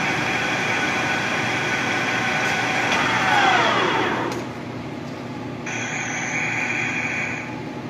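A machine tool's motor running with a steady whine, then switched off about three seconds in and spinning down, its pitch falling away. A second, higher steady whine follows for about two seconds near the end.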